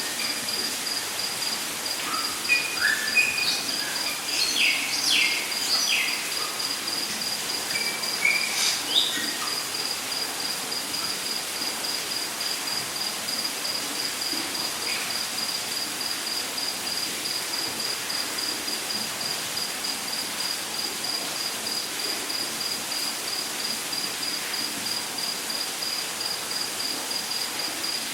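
Rainforest ambience: an insect trills in a rapid, even pulse at one high pitch over a steady hiss of water. Assorted birds chirp and give short whistles for about the first nine seconds, then stop.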